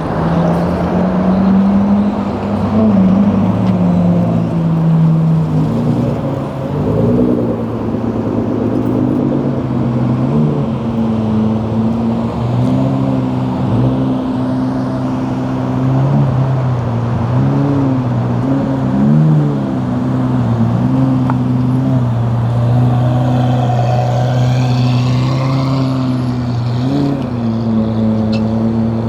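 Car engines idling with a steady low drone, with several short rev blips that briefly raise the pitch.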